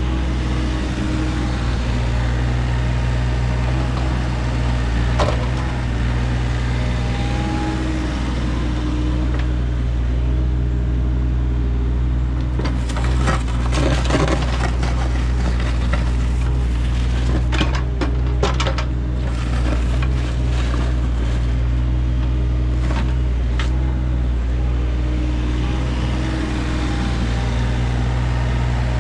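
Engine of heavy landscaping equipment running steadily at a constant speed, with a cluster of clanks and knocks about halfway through.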